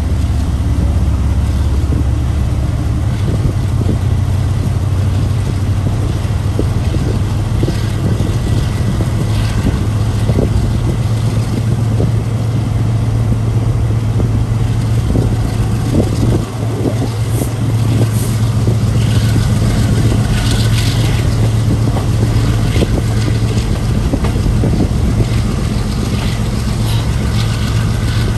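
Passenger train coach running along the track, heard from an open window: a steady low drone with wheel-on-rail rumble. Scattered clicks and knocks come in from about halfway through.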